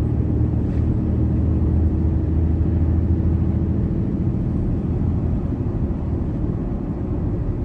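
Ram 3500's 6.7-litre Cummins inline-six turbo diesel droning steadily on full exhaust brake while holding the truck back down a steep grade, easing off slightly about halfway through.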